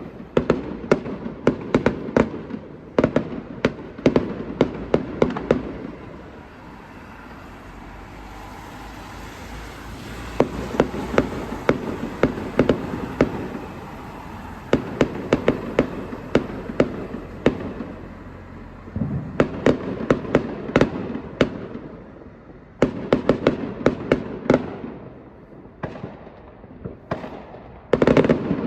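Fireworks display: several volleys of rapid, sharp bangs and crackles, separated by brief lulls.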